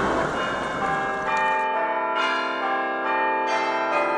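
Church bells ringing a peal, struck notes overlapping and ringing on. A loud rushing noise under them cuts off suddenly about one and a half seconds in, leaving the bells on their own.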